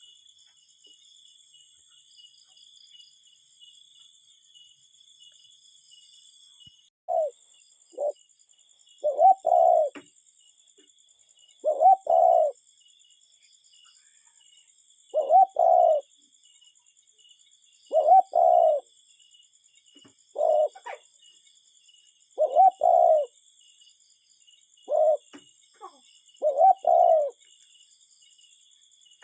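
Cuckoo calling its two-note "cuck-oo" over and over, each pair repeating every three seconds or so and starting about seven seconds in. A steady high trill of insects runs underneath.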